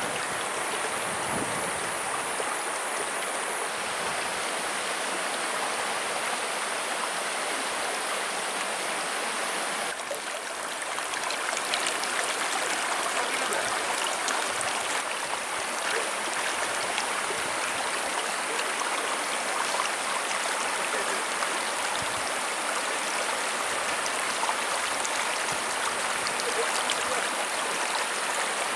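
Mountain river running over rocks, a steady rushing and burbling of flowing water from the stream fed by Tretes waterfall.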